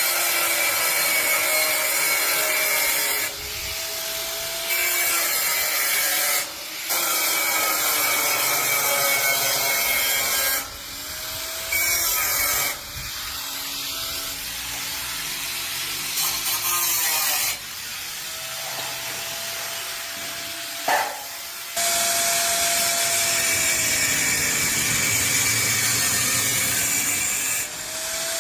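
Power tool running under load in long passes, dropping off briefly and starting again every few seconds.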